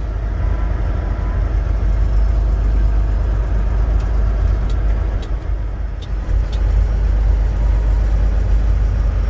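Semi-truck's engine and road noise heard from inside the cab while driving, a steady deep rumble. A few light clicks come in the middle.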